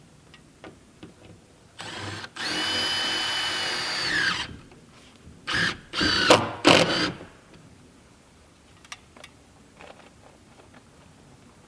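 Handheld power driver running in short pulls of the trigger: one brief burst, a steady whine of about two seconds that dips in pitch just before it stops, then three short bursts. These are screws being driven, which fits battens being fastened onto the cabin wall.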